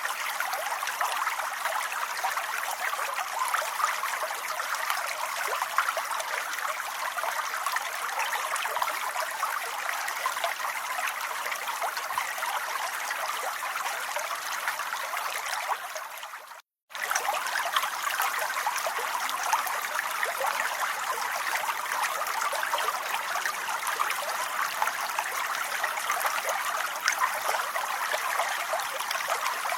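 Steady rain, a dense even hiss of many small drops. It fades out and cuts to silence for a moment about seventeen seconds in, then resumes unchanged.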